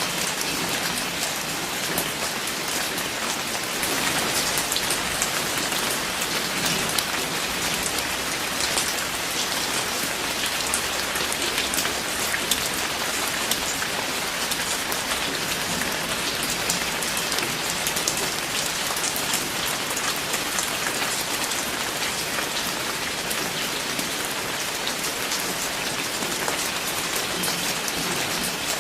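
Steady rain falling on a surface, a dense even hiss dotted with many individual drop ticks.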